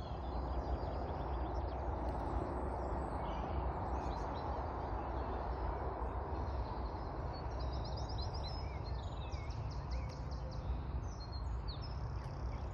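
Several songbirds chirping, with quick repeated trills around the middle and again near the end, over a steady outdoor background rumble.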